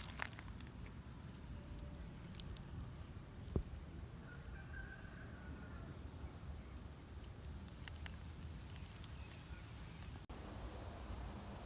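Faint outdoor ambience with a few short, high bird chirps and a brief call, and one sharp knock about three and a half seconds in.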